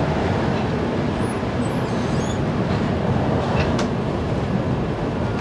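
Passenger train coach pulling slowly out of a station, heard from its open doorway: a steady rumble of the wheels and running gear.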